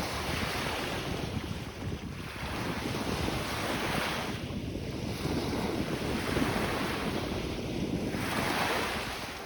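Waves on Lake Ontario washing onto the beach, the wash swelling and fading every few seconds, with wind buffeting the microphone.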